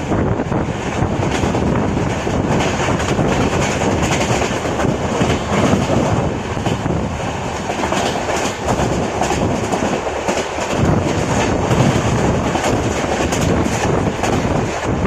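Express train running at speed, heard from on board, with the steady rumble and clickety-clack of the coach wheels over the rails.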